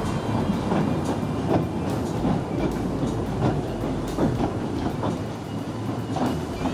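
Narrow-gauge train running along the track, its wheels knocking and clicking irregularly over the rail joints under a steady rumble.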